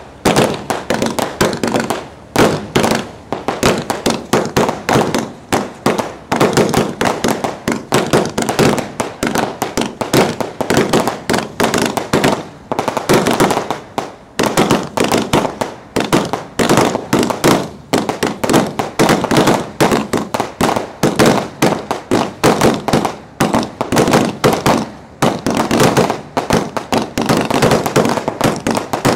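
Aerial fireworks shells firing and bursting at close range from the firing barge, a dense, unbroken barrage of loud booms, several a second.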